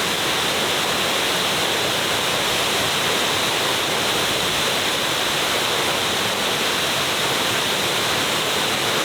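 Jungle waterfall pouring, a steady, loud rush of falling water.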